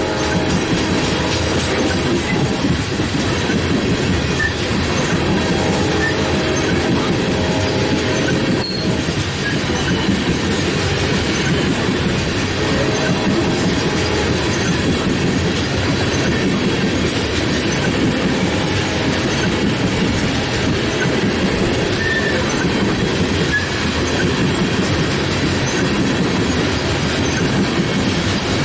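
Freight cars of a BNSF coal train rolling past close by: a steady rumble and rattle of steel wheels on rail, with an occasional brief high wheel squeak.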